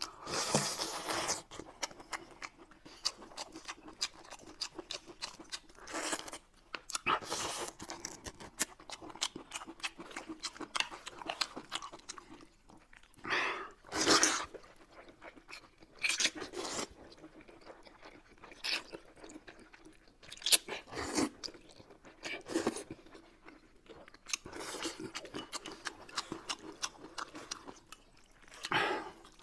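Close-miked eating sounds: steady crunchy chewing and biting, broken by several loud slurps of noodles, the loudest about halfway through.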